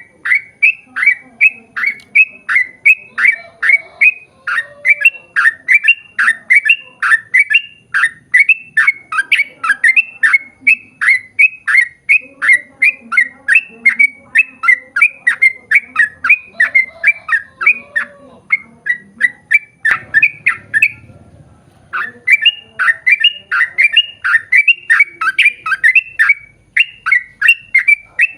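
Yellow-vented bulbul (trucukan) singing a long, rapid run of short notes, each sweeping down, about three a second, with one brief pause about twenty seconds in.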